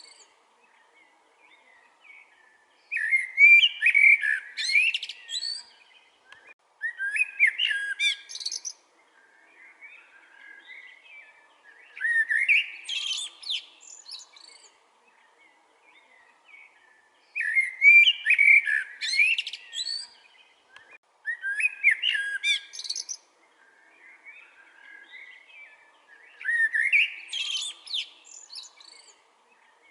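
Common blackbird singing: about six warbled phrases, each a couple of seconds long and ending in a higher, thinner twitter, with pauses of a second or two between them. Other birds chirp faintly in the gaps.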